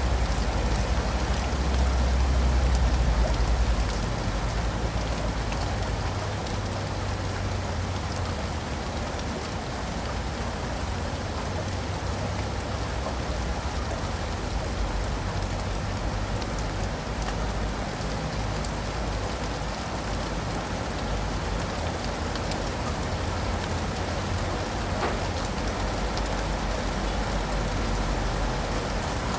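Steady rain falling on leaves and pavement, an even hiss of drops throughout. A low rumble underlies it, loudest for the first four seconds or so and then easing.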